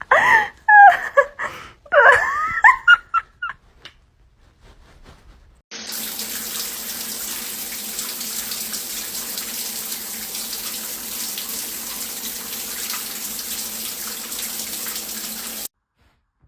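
A few loud, pitch-bending animal calls, like a cat's yowls, in the first few seconds. After a short pause, water runs steadily from a tap for about ten seconds, then cuts off abruptly.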